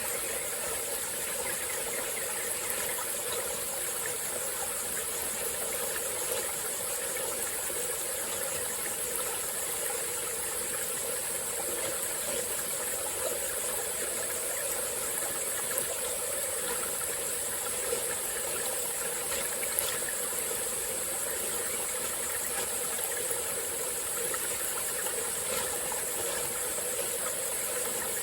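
Small tropical forest stream flowing and trickling steadily, over a continuous high-pitched insect chorus.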